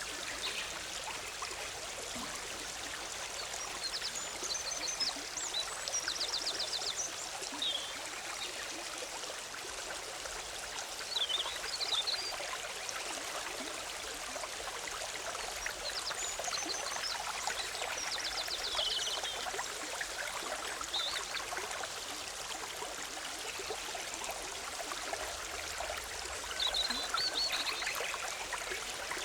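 Forest stream bubbling steadily, with songbirds singing over it every few seconds, including a couple of quick rattling trills.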